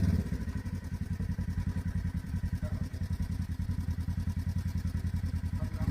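Off-road vehicle engine idling with a steady, even pulsing, after dropping back from higher revs a moment into the sound.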